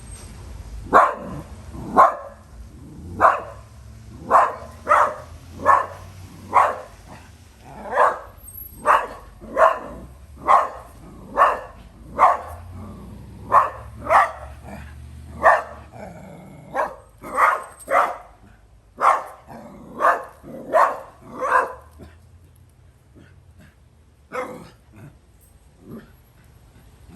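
A dog barking over and over, about one bark a second, with a low steady rumble underneath. The barks thin out and grow fainter for the last few seconds.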